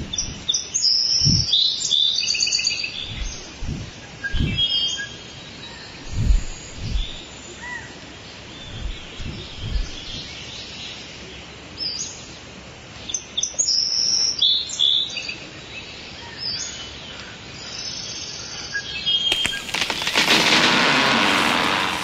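Woodland birds chirping and singing, several calls overlapping, with scattered soft low thuds. Near the end a loud, steady rushing hiss comes in.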